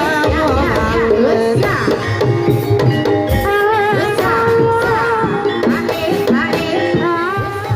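Javanese gamelan music accompanying kuda kepang (ebeg) dancing: hand drumming under steady metallophone notes, with a high melody that wavers and bends in pitch over them.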